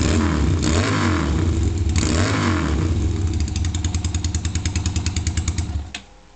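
Motorcycle engine through an Akrapovic slip-on megaphone exhaust: idling, blipped twice with the revs rising and falling, about half a second and two seconds in, then back to a pulsing idle before it is switched off and stops near the end.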